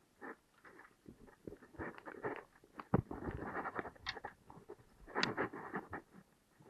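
Irregular rustling, scraping and knocking close to the microphone in a kayak, with one sharp knock about three seconds in.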